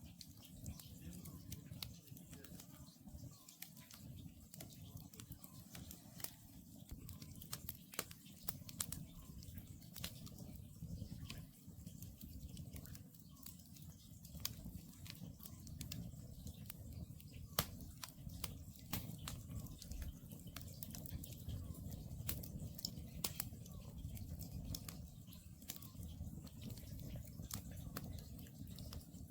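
Wood campfire burning, with frequent irregular sharp crackles and pops over a steady low rumble from the flames.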